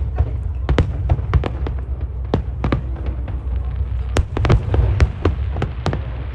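Fireworks going off overhead in rapid, irregular bangs and pops, several a second, over a steady low rumble.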